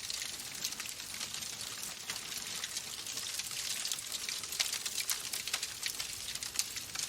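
Wood fire burning in a fireplace, crackling: a steady hiss with frequent small, sharp pops.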